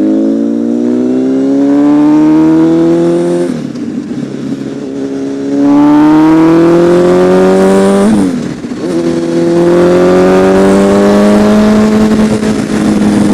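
Honda CBR1000RR Fireblade's inline-four engine accelerating hard, its pitch climbing in three long pulls. The pitch breaks and drops about three and a half seconds in and again about eight seconds in, as the bike shifts gear or rolls off, before climbing again.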